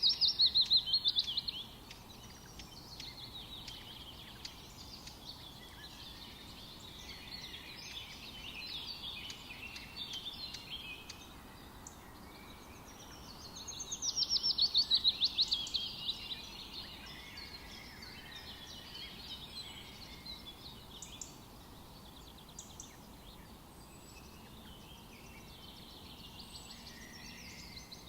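Forest birdsong: several birds chirp and sing continually over a faint steady hiss. Twice, at the start and about halfway through, one bird sings a louder, fast trill whose notes slide down in pitch.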